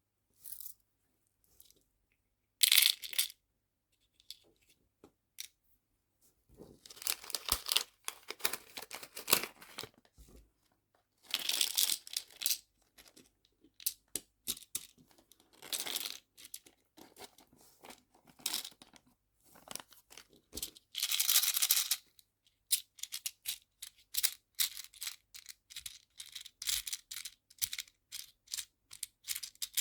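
Handling of small nail-art charms and their plastic packaging: bursts of crinkling and rustling lasting a second or two, between them many short clicks and taps, which grow busier near the end.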